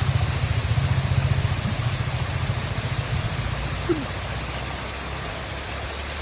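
A vehicle engine idling with a fast, pulsing low throb that eases off about three seconds in. A steady hiss runs over it throughout.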